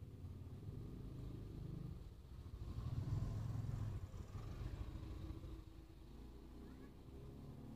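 Car engine idling, a low steady rumble heard from inside the cabin, swelling louder for a second or two about three seconds in.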